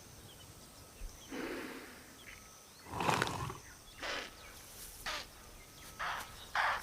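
A series of short, rough, breathy animal sounds from a tiger and a deer, about one a second, with the loudest about three seconds in. The tiger is holding the deer in a suffocating bite over its nose and mouth.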